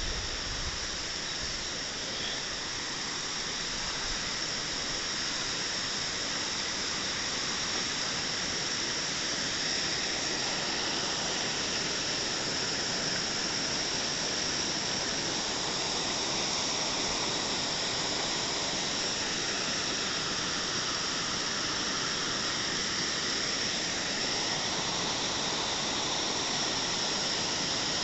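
Waterfall cascading, a steady rushing of water.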